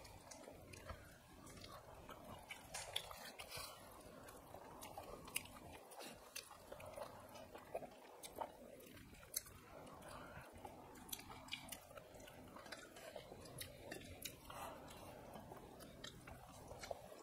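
Faint chewing of mouthfuls of rice and curry eaten by hand, with many small, irregular clicks scattered throughout.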